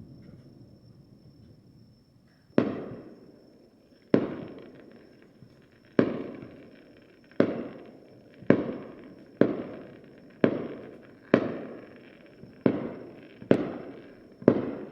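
Aerial fireworks shells bursting: about eleven sharp bangs, each trailing off in a rumbling echo. They start a couple of seconds in and come faster toward the end.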